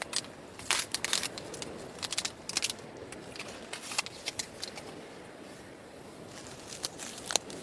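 A run of irregular sharp clicks and crackles, some in quick clusters, over a faint steady hiss.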